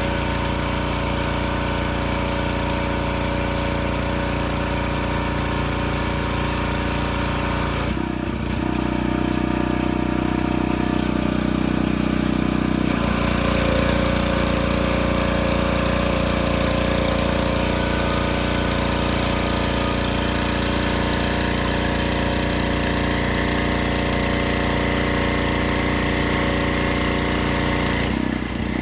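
Gas pressure washer engine running steadily under load. Its sound shifts for several seconds from about eight seconds in, and briefly again near the end.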